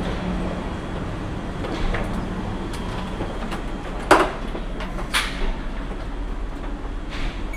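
A train standing at the platform with a steady low hum, and two sharp clunks about four and five seconds in.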